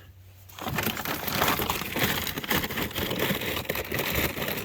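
Dry scratch grains rattling and pattering as a cup is scooped out and poured, a dense run of small hard clicks starting about half a second in.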